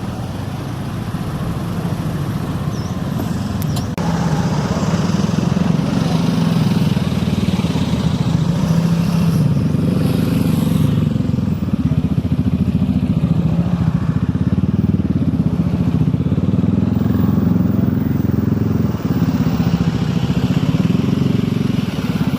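A motor vehicle engine running close by, a steady low drone whose pitch drifts up and down a little.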